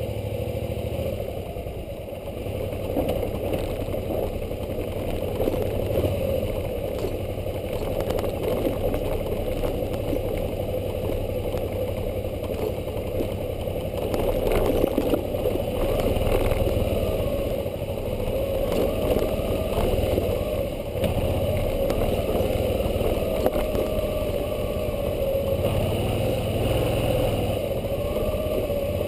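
Suzuki V-Strom 650's V-twin engine running at low, steady trail speed, its pitch wavering slightly as the throttle changes, with scattered knocks and rattles from the bike riding over the bumpy dirt track.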